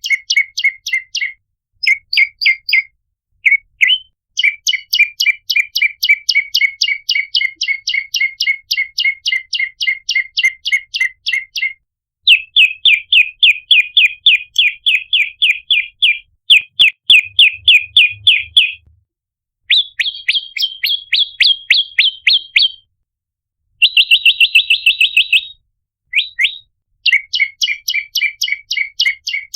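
Ashy tailorbird (prenjak lumut) calling. It gives rapid trains of sharp chip notes, about six to eight a second, in runs of several seconds with short pauses between them. Some runs sit higher in pitch than others.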